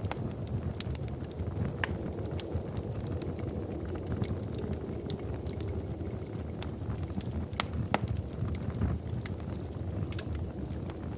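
Wood fire crackling in a fireplace: irregular sharp pops and snaps over a steady low rumble of the flames, with one louder snap about eight seconds in.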